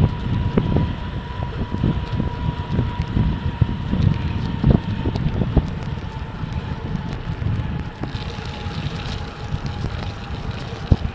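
Mountain bike rolling in the rain: wind buffets the microphone, and the tyres rumble and knock over the rough ground. A faint steady high tone sinks slightly in pitch.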